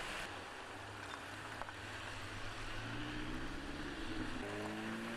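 A motor vehicle's engine running, its pitch rising slowly over the last couple of seconds as it speeds up, over a steady hiss of street noise.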